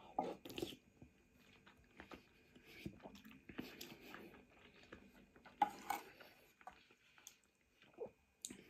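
Quiet close-up chewing of noodles, with wet mouth clicks and a few soft bursts of noise here and there.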